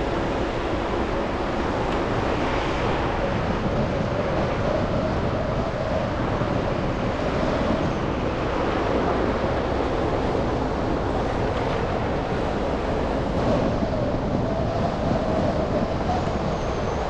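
Steady road noise of a car driving through city streets: tyre hiss and engine hum, with no breaks.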